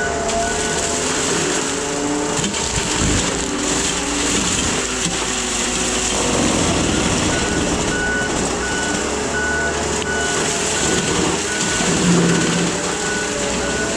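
Case skid steer's engine running hard with a Shearex mulching head, its pitch rising and falling as the load changes. The machine's backup alarm beeps about twice a second, stopping about a second in and starting again around halfway through: the skid steer is reversing.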